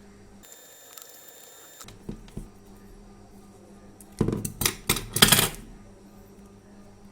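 A clatter of hard objects being handled: a couple of small clicks, then a burst of loud knocks and rattles about four seconds in. A steady low hum sounds underneath.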